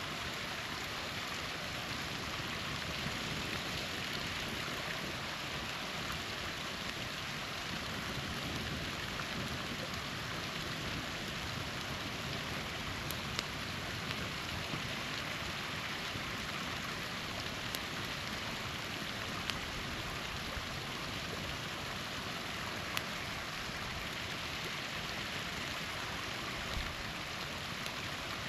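Small waterfall splashing in a steady, even rush, with a few sharp pops and crackles from a campfire scattered through it.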